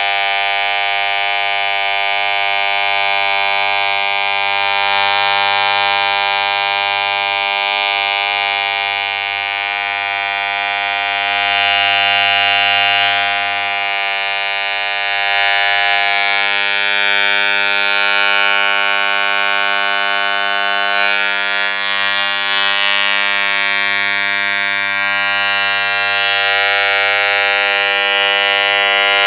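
Electric hair clipper running continuously with a steady, even buzz, and a brief rougher patch about two-thirds of the way through.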